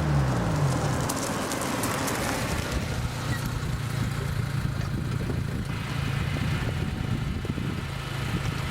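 Honda Civic's D14Z1 four-cylinder engine through a Burstflow muffler with its silencer insert removed, dropping from held revs back to idle in the first second, then idling steadily.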